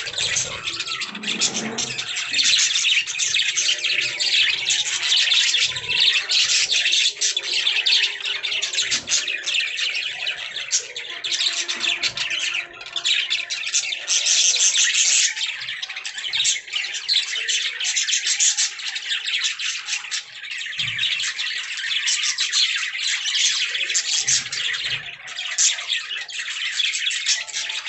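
Budgerigars chattering and warbling nonstop: a dense stream of rapid chirps, trills and squawks, with a few soft low thumps mixed in.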